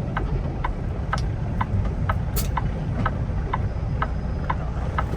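Turn signal clicking steadily, about twice a second, inside a Kenworth T680 semi-truck cab, over the low steady rumble of the diesel engine and road.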